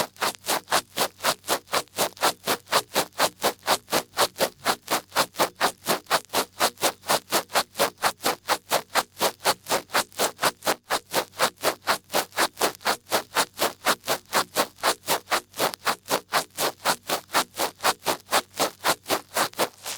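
Large ear pick rubbing and scraping in an ear in a steady, even rhythm of about four strokes a second.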